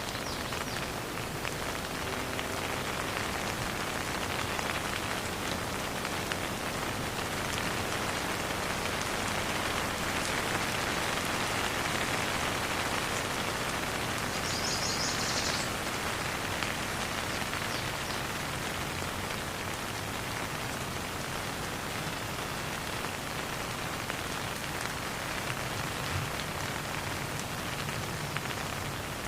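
Steady rain falling, with no thunder. A brief high trill sounds about halfway through.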